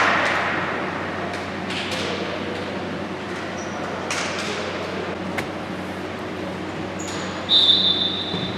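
Futsal play in a sports hall: echoing hall noise with a few sharp knocks of ball strikes, then a high whistle blast about a second long near the end.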